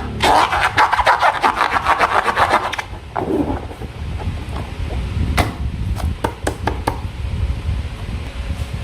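Slime being worked by hand: a dense run of rapid crackling, sticky clicks for about three seconds, then a few scattered clicks, over a steady low rumble.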